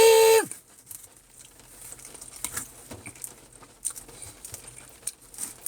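A man's drawn-out whoop ends about half a second in. After it, faint, irregular light patter, like raindrops.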